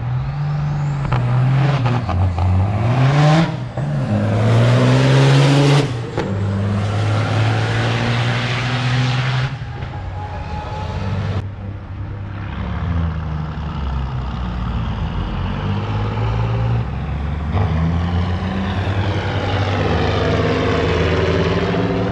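Heavy diesel truck engine accelerating: its pitch climbs and drops several times in the first few seconds, as with gear changes, then it runs on more steadily.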